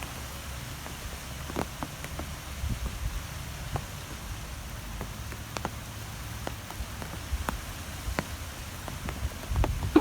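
Rain falling, with scattered drops ticking irregularly on a surface over a steady hiss, and a low rumble of wind rising and falling underneath.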